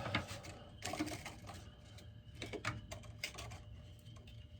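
Irregular clicks, taps and rustles of a power sander being handled as its 80-grit sandpaper is swapped for 120-grit, over a low steady hum.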